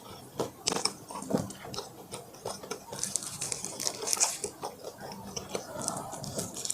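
A person chewing food close to the microphone, with many quick clicks and crunches. A denser patch of crackling comes about three to four and a half seconds in.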